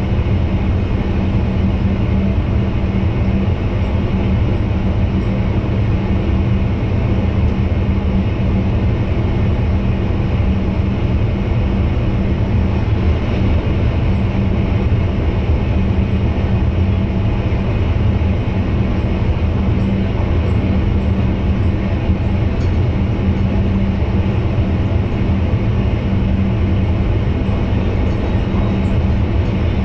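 Steady running noise in the driver's cab of an NS VIRM double-deck electric train: a low rumble from the wheels and rails with a steady low hum.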